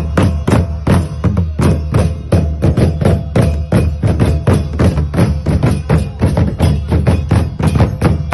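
Traditional Nepali folk drumming by Damai musicians: a rapid, steady beat of drum strikes, about four to five a second, with heavy low drum tones.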